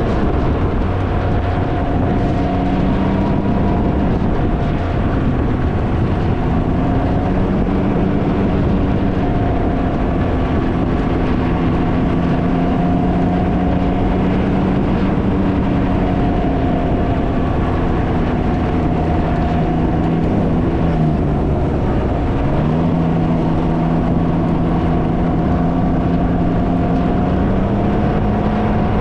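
Can-Am Ryker's engine running at a steady cruise, its pitch dipping briefly about two-thirds of the way through and then climbing back, under heavy wind buffeting on the microphone.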